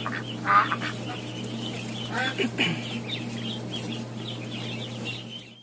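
A flock of greater flamingos calling: many overlapping nasal honks and chatter, loudest at the start and about half a second in, over a steady low hum.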